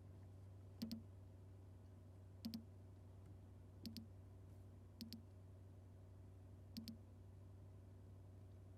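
Faint paired clicks, irregularly spaced a second or two apart, five in all, over a steady low hum.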